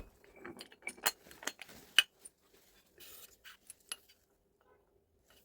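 Irregular metallic clinks and clicks of rotary hammer parts and hand tools being handled, the sharpest click about two seconds in, with a faint steady hum underneath.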